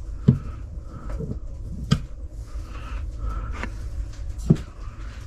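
Three sharp knocks, about a second and a half apart, of objects being handled and set down, over a low steady rumble.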